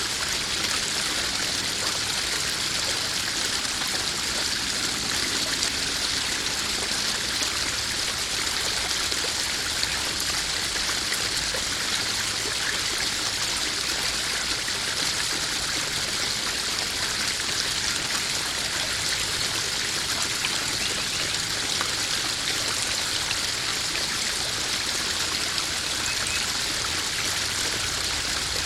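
Small garden waterfall splashing and trickling steadily into a koi pond.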